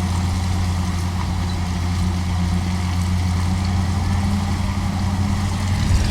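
Pickup truck engine and drivetrain running slowly in four-wheel low, hauling a truck camper up a steep grade: a steady low drone.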